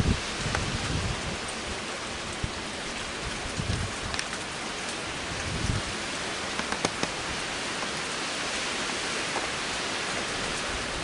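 Heavy rain falling steadily, a constant hiss with scattered sharp drop ticks. Low rumbles of wind buffet the microphone near the start and again around four and six seconds in.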